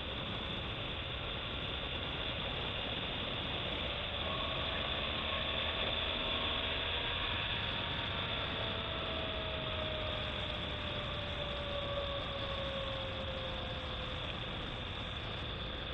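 BMW R1200GS Adventure's boxer-twin engine running at a steady cruise, its note drifting slowly lower, under a constant rush of wind and road noise.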